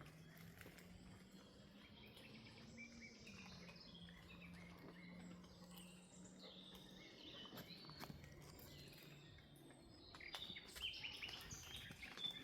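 Faint forest ambience: scattered birdsong chirps over a low steady hum that fades out after about ten seconds, then a short run of rustling steps on the forest floor near the end.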